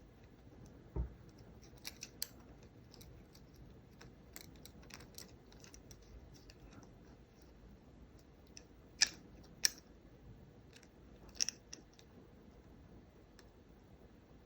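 Scattered light clicks and taps of small hand tools working on a folding phone's hinge cable and housing parts, with three sharper clicks in the second half.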